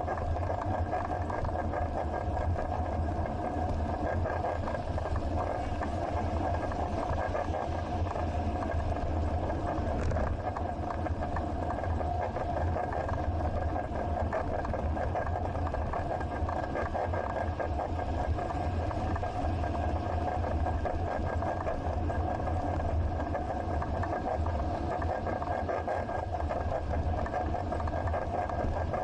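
Steady ride noise picked up by a bicycle-mounted action camera: low wind rumble and road noise, with engine noise of passing city traffic.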